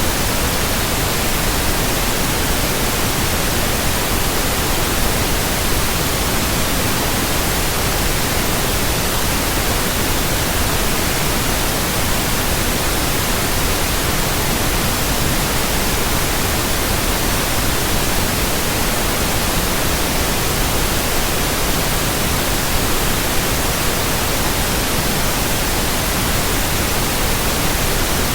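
Steady synthetic white noise: an even hiss across the whole frequency range, unchanging throughout.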